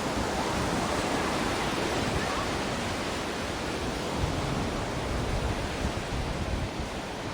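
Ocean waves washing on the shore: a steady hiss of surf that eases slightly toward the end.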